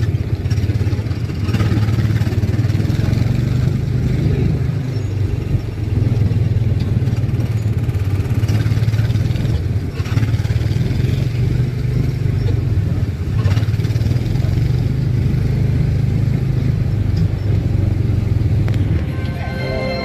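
Small engine of a driven ride car running at a steady speed, a continuous low drone, with music in the background.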